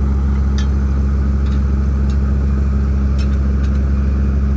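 Heavy construction machine's diesel engine running steadily with a deep drone, with a few faint metallic clicks now and then.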